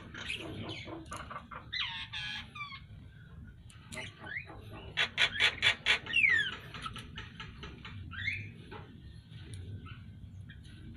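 Birds calling: a short call about two seconds in, a fast run of sharp notes around five seconds in that ends in a falling whistle, and another call a couple of seconds later.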